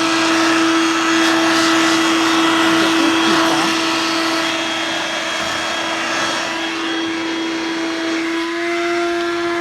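Dirt Devil Vibe corded stick vacuum's motor running steadily with a whine, its pitch lifting slightly near the end.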